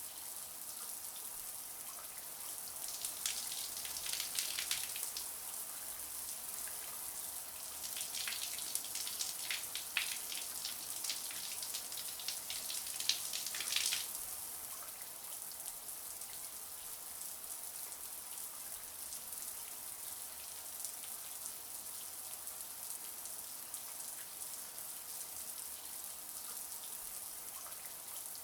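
Running shower water: a steady high hiss of spray with patches of heavier splattering, as water strikes something closer, between about 3 and 5 seconds in and from about 8 to 14 seconds in, ending abruptly.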